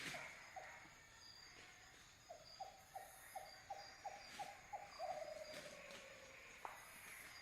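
A night animal calling a rapid run of short notes, about three a second, ending in one longer note that slides down in pitch. Crickets chirp faintly underneath.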